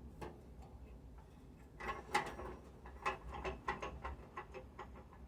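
A run of about a dozen light, irregular metallic clicks and clinks, with the loudest just after two seconds in: small metal parts being handled.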